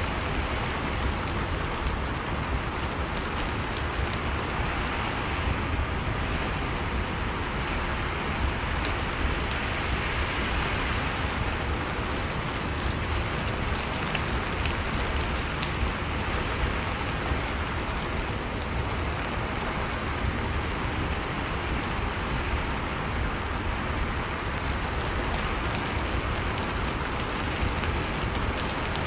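Steady rain falling, a constant hiss of many drops with scattered light patters and a low rumble underneath.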